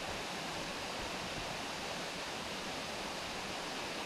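Tall waterfall, about 248 feet high, making a steady, even rush of falling water.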